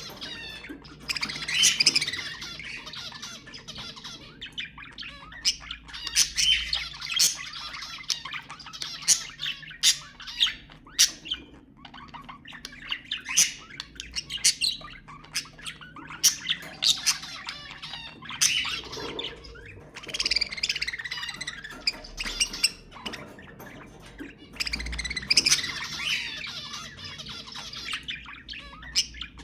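Budgerigars (budgies) chattering, with rapid chirps, warbles, clicks and squawks that come in dense clusters every few seconds.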